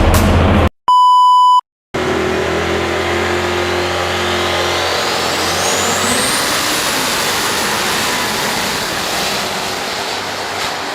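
A short electronic beep about a second in, then a loud pulling-competition engine running hard, with a high whine that climbs steadily in pitch over several seconds.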